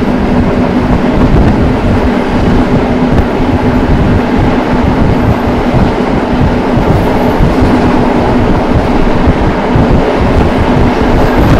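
Passenger train running, heard from on board: a loud, steady rumble with a constant hum.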